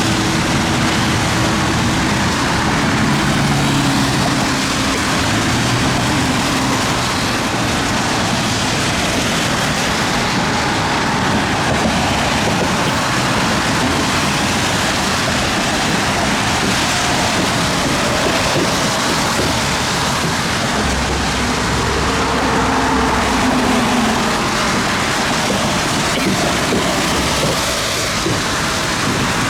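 Heavy thunderstorm rain pouring steadily, a dense even hiss, with a faint low hum drifting through early on and again about two-thirds of the way in.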